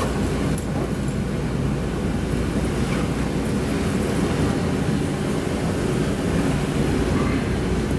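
Steady low rumble of a Boeing 737-700 cabin parked at the gate, with ventilation air running.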